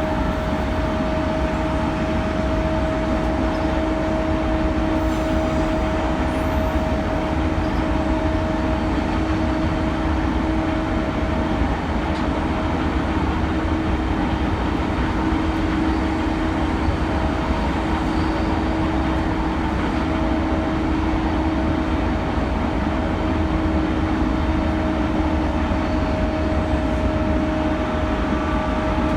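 E217 series electric train's traction motors running at top speed: a steady whine in two tones over the rumble of wheels on rail. This is the vacuum-cleaner-like drone the series is known for.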